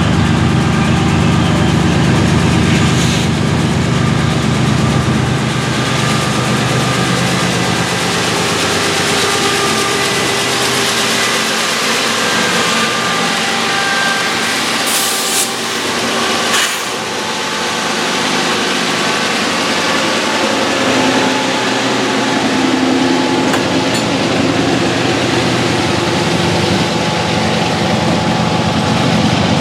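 Freight train passing close by, led by several diesel locomotives: a deep engine hum from the lead units for the first few seconds, then the steady rumble of wheels on rail as the trailing locomotives and hopper cars roll past, with two sharp clicks near the middle.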